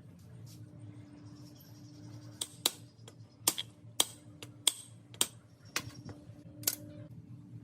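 A series of about ten sharp, separate clicks and taps, irregularly spaced over several seconds, over a steady low hum.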